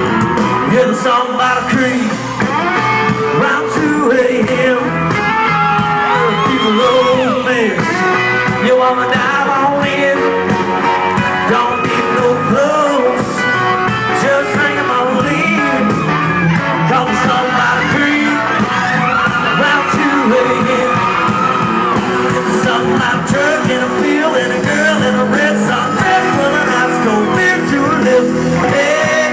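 Live country-rock band playing loudly, with electric guitars, drums and a singing voice.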